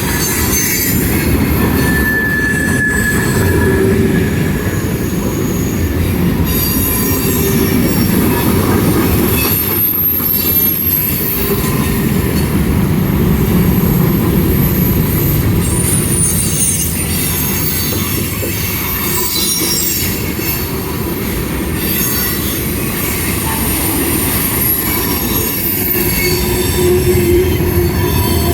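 A long mixed freight train rolling past with a steady heavy rumble of wheels on rail. Brief high-pitched wheel squeals come and go over it.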